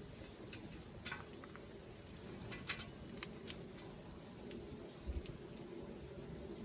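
Small wood fire burning in a fire stand, crackling quietly with a few sharp pops scattered through.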